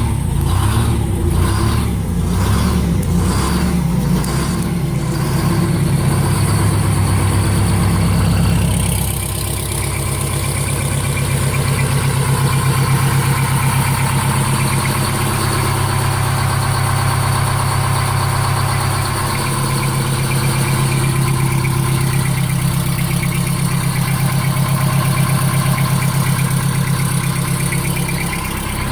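Detroit Diesel 8V71 two-stroke V8 running cold, just after a cold start without the block heater. It pulses evenly about one and a half times a second for the first five seconds, then settles into a steady idle.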